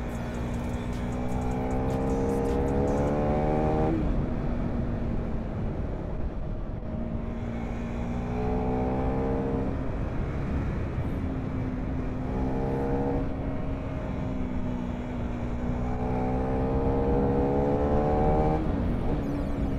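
KTM Duke 390 single-cylinder engine under hard acceleration, its pitch climbing through each gear and dropping sharply at the upshifts, several times over.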